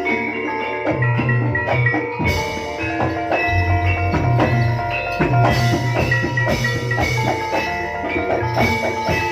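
Live Javanese gamelan music for a jaranan horse dance. Struck bronze metallophones ring out layered melodic notes over hand-drum beats and recurring deep gong-like strokes.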